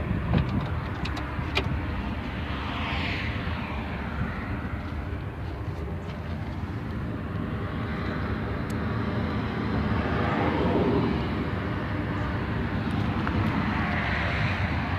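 Steady vehicle noise from passing traffic, swelling and fading a few times, with a few sharp clicks in the first two seconds.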